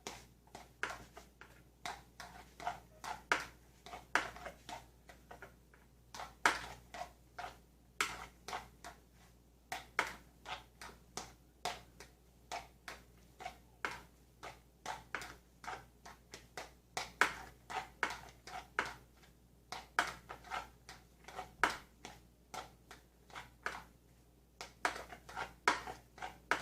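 Fork clicking and scraping against a bowl as cooked instant ramen noodles are tossed with their seasoning: a steady run of short, irregular knocks, a few each second.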